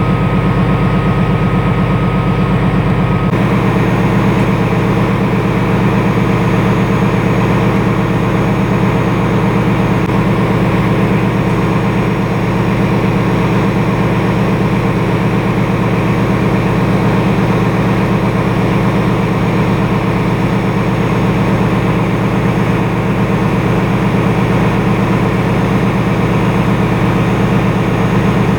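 Railway locomotive running with a loud, steady drone. A thin high tone stops about three seconds in.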